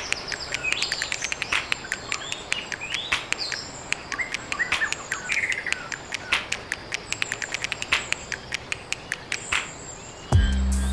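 Birds chirping and calling in short, rising and falling chirps, over a steady outdoor background with many sharp ticks. A bass-heavy electronic music track comes in just before the end.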